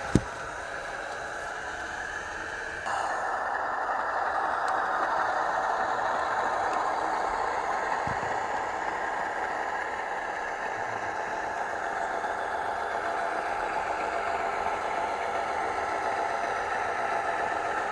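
Train running noise: a steady rattling, clattering rumble that steps up louder about three seconds in, after a sharp click at the very start.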